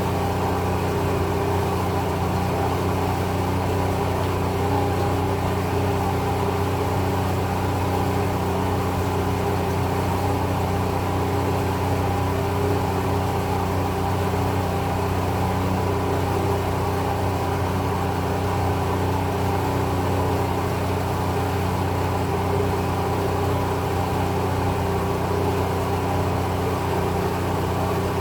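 An engine running steadily at constant speed, a low even hum with no change in pitch or level.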